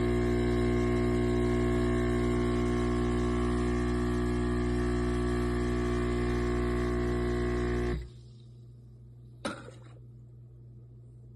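Espresso machine's vibratory pump running with a steady buzzing hum, then cutting off suddenly about eight seconds in. A single click follows a second or so later.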